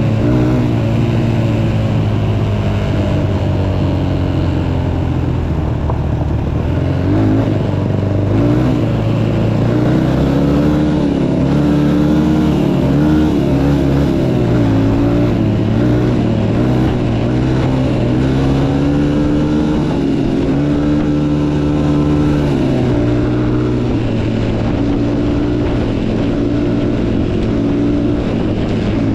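Motocross bike engine running hard while being ridden, its pitch rising and falling again and again with throttle and gear changes.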